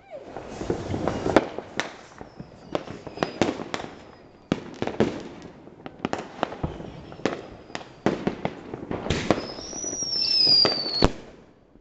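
Fireworks and firecrackers going off all around: a string of sharp bangs at uneven spacing with crackling between them. Near the end a high whistle slides slightly down for about two seconds and then stops abruptly.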